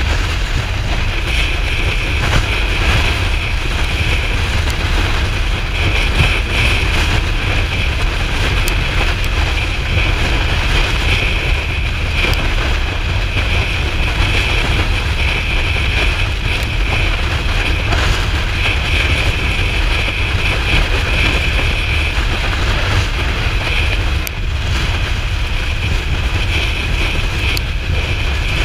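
Kawasaki Ninja 400's parallel-twin engine running steadily while riding, under loud wind rush across the microphone.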